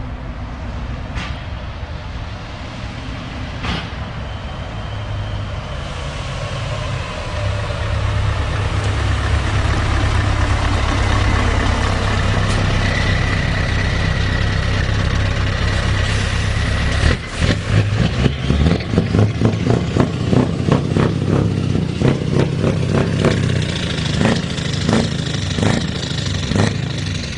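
Scania V8 diesel truck engine running, swelling in loudness over several seconds with a high whine over it, then breaking into a rapid run of pulsing beats, about two a second, for the last ten seconds.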